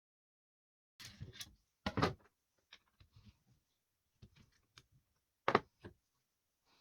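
Irregular knocks, clicks and short scrapes of hard objects being handled, starting about a second in, with the loudest knocks about two seconds in and again near the end.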